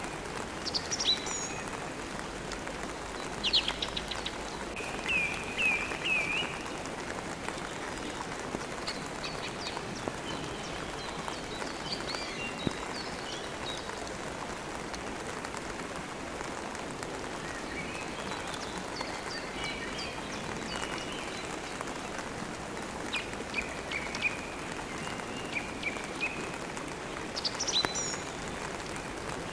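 Steady rain, with songbirds chirping over it in short phrases every few seconds.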